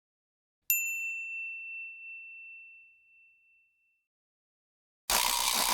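A single bell-like ding, struck once and ringing out clear for about three seconds. Near the end a dense, noisy sound starts abruptly.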